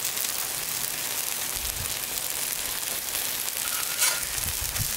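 Battered pieces sizzling steadily in hot oil in a frying pan, with a short utensil clink about four seconds in.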